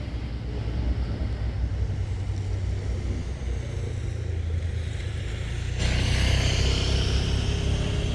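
Royal Blossom diesel railcar train running with a steady low engine rumble. About six seconds in, a louder, higher hissing noise with thin squealing tones joins it.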